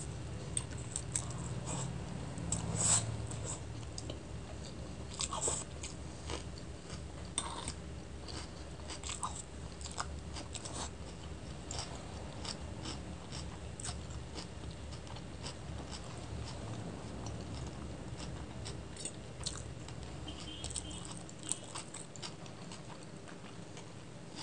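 Close-miked chewing of chicken chow mein noodles: irregular wet mouth clicks and smacks, with noodles sucked in at the start.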